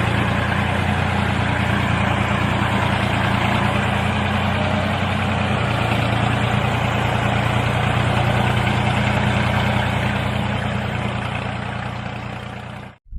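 Engine running steadily at an even speed, fading away near the end.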